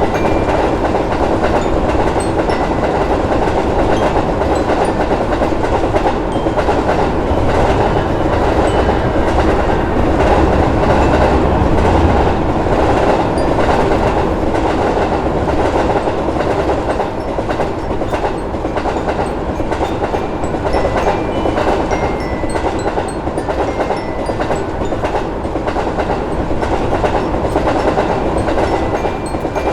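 A train running past with a steady rumble, its wheels clacking over the rail joints; the clacking grows more distinct about halfway through.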